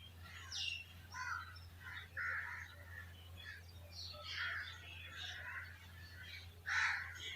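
Birds chirping and calling in short, scattered bursts, with a few harsher, louder calls. The loudest comes near the end. A steady low hum runs underneath.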